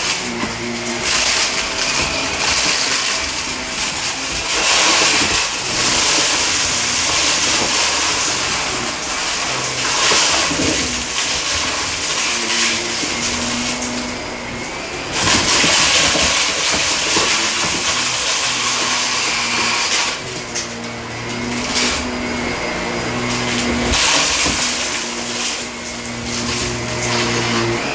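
Shark vacuum cleaner running over carpet, pushed back and forth, its motor hum rising and falling with each stroke, with a crackling crunch of debris being sucked up.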